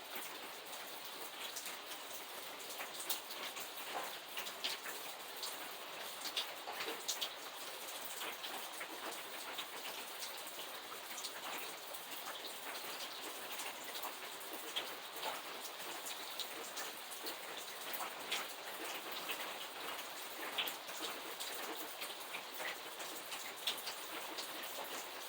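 Steady rain falling, with a constant hiss and many separate drops ticking on a hard surface.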